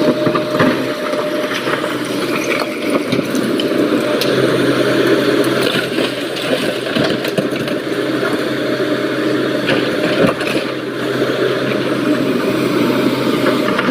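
SANY excavator's diesel engine running steadily, with scattered knocks and clatter of rock.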